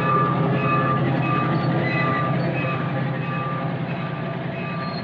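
Miniature railway train running close by, its locomotive's engine giving a steady low hum, with short high-pitched squeaks repeating every half second or so.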